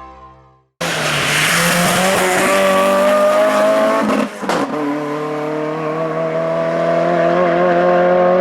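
The end of the intro music fades out, then there is an abrupt cut to a hill-climb race car's engine running loud at high revs. There is a brief break in the engine note about four seconds in, after which it carries on steadily.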